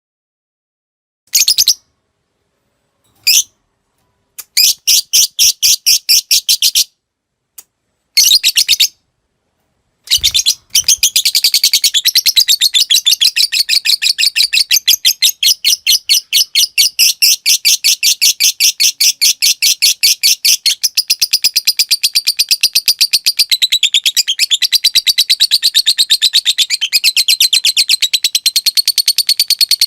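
Lovebird singing: a few short, sharp chirp bursts with pauses between them, then, about ten seconds in, a long unbroken run of rapid, evenly repeated high chattering notes, the long 'ngekek' trill.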